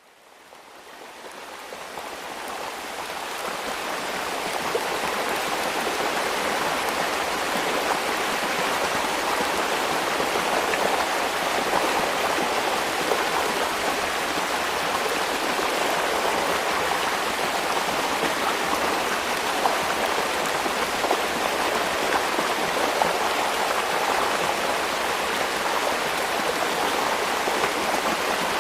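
Heavy rain falling as a steady, even hiss of water, fading in over the first few seconds.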